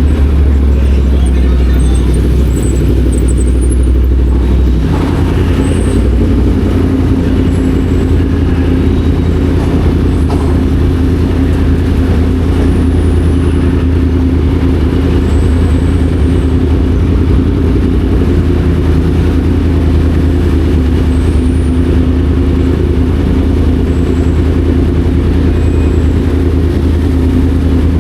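Yamaha MT-10 SP's crossplane inline-four engine running as the motorcycle is ridden; the engine note shifts about five seconds in, then holds steady.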